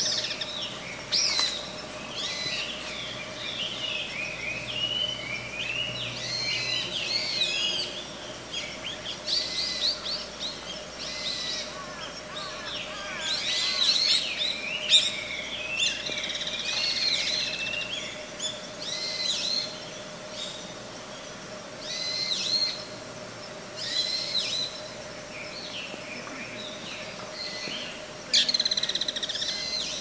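Many small birds chirping and calling in quick, overlapping phrases, with a faint steady hum underneath.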